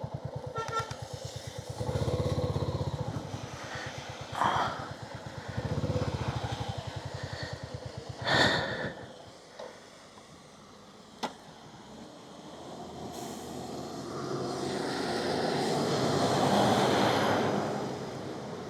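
Royal Enfield Hunter 350's single-cylinder engine running at low speed, pulling harder twice, then going quiet about nine seconds in. A sharp click follows, and a rising hiss fills the last few seconds.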